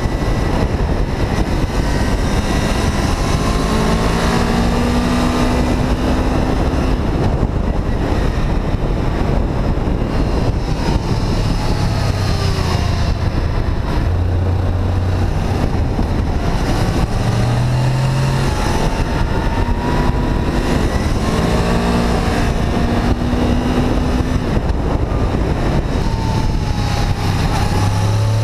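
Honda VFR 800 VTEC's V4 engine heard while riding, its pitch rising and falling as the revs change, over heavy wind rush on the microphone.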